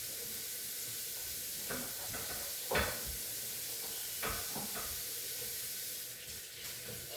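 A steady hiss with three short knocks, the loudest about three seconds in.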